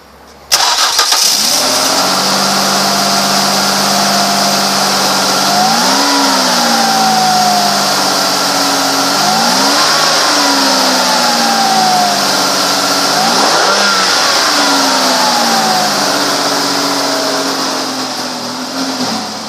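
A 2005 Ford Escape's V6 engine starts about half a second in and settles into a steady idle. It is revved three times, each time rising and falling back to idle.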